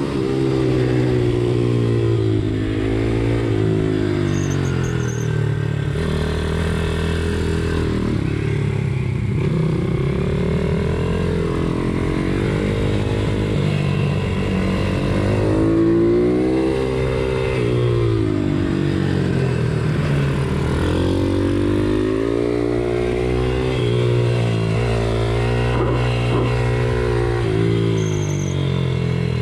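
Pit bike's small single-cylinder engine revving hard, its pitch climbing and dropping again every few seconds as the bike accelerates and eases off, over a steady lower engine drone.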